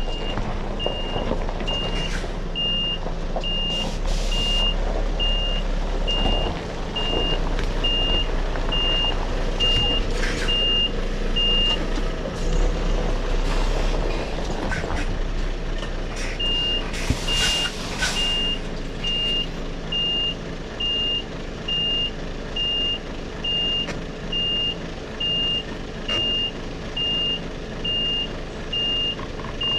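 Articulated lorry's reversing alarm beeping about twice a second over the diesel engine running. The beeps stop for a few seconds midway, then resume, with a short hiss of air just after.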